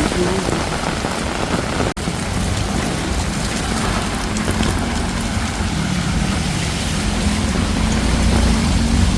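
Heavy rain falling in a steady hiss, with vehicle engines idling and running low underneath. The sound drops out for an instant about two seconds in.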